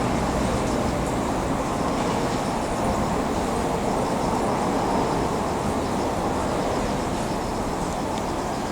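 Steady rumble of a slow-moving train, with no breaks: rail cars being hauled by a switcher along depot tracks.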